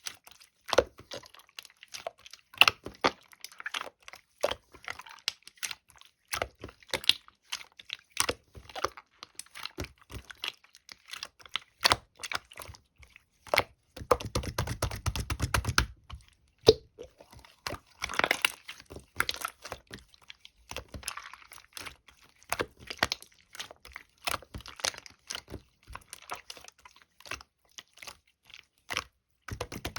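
Clear, transparent slime being pressed and squeezed by hand, giving irregular sticky clicks and pops, with a denser stretch of squishing about halfway through.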